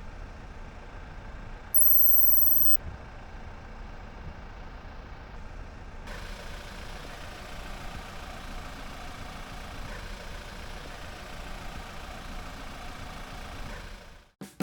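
Steady vehicle engine hum and outdoor background noise, with one loud high-pitched electronic beep lasting about a second, two seconds in; the noise turns hissier about six seconds in.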